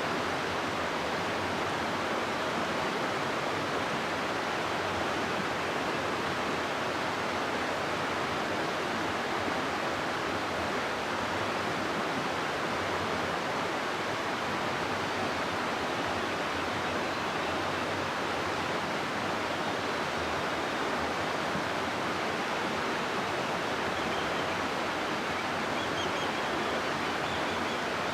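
River water rushing through a rocky gorge: a steady, even rush of flowing water.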